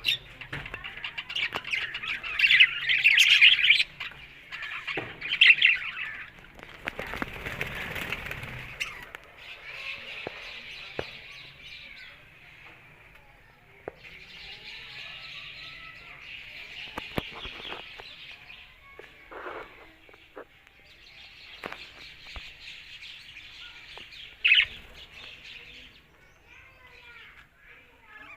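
Budgerigars chattering and warbling in long stretches, with a few louder, sharper calls near the start and one near the end.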